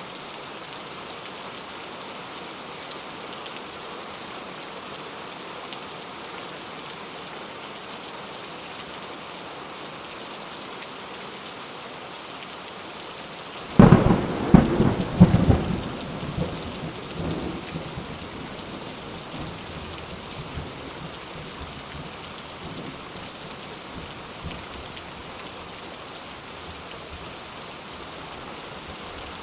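Steady rain falling, with a sudden thunderclap about fourteen seconds in that rumbles on for a few seconds and fades away.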